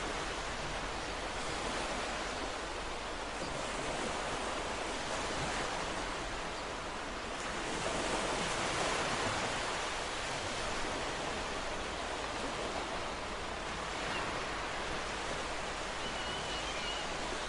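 Ocean surf: a steady rush of breaking waves that slowly swells and eases, a little louder about eight seconds in.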